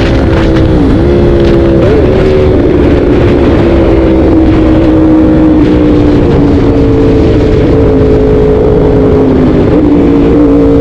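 Yamaha R1 inline-four through an Arrow titanium exhaust, running at high revs. The engine note dips sharply twice in the first two seconds, then holds steady with a slow downward drift, and steps up again near the end.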